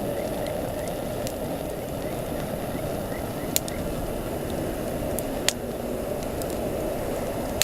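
Wood campfire burning with a steady rushing sound, broken by a few sharp crackling pops from the burning wood.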